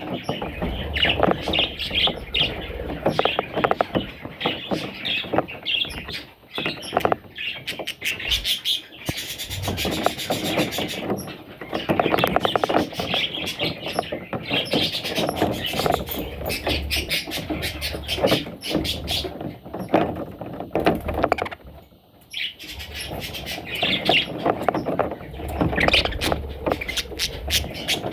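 Budgerigar chicks chirping rapidly and almost without a break, with short lulls now and then.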